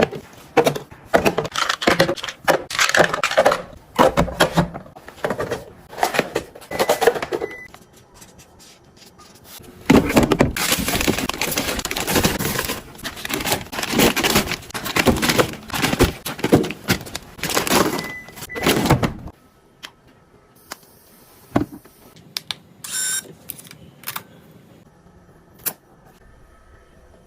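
Plastic storage containers and packaged food being handled and packed into a refrigerator: a run of clicks and knocks, then about nine seconds of dense rustling and clatter, then a few sparse knocks.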